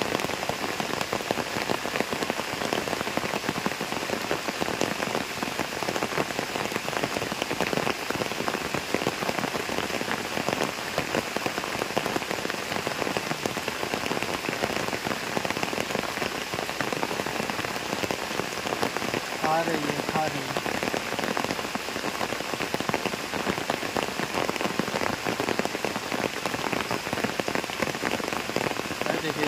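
Steady rain falling onto a pond's surface: an even, unbroken hiss of countless small drops hitting the water.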